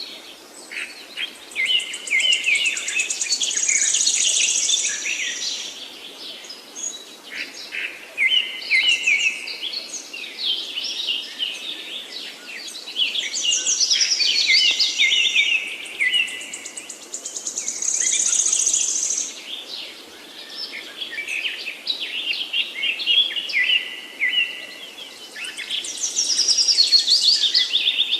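Several woodland songbirds singing together, their phrases overlapping, with a bright high trill returning every few seconds.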